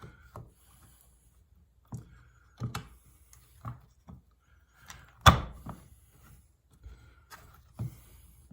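Small plastic and metal parts of a Corvette pop-up headlight motor gearbox clicking and knocking as they are handled and pushed into the housing, with one sharper knock about five seconds in.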